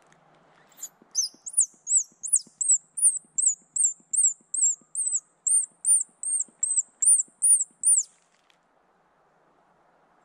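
A bird's close, high, thin chirping call: about twenty quick arched notes, some three a second, starting about a second in and stopping abruptly about eight seconds in.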